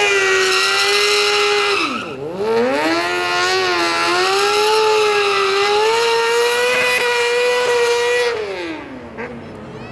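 Sportbike engine held at high revs during a burnout, the rear tyre spinning against the pavement. The revs dip and climb back about two seconds in, hold steady, then drop away near the end.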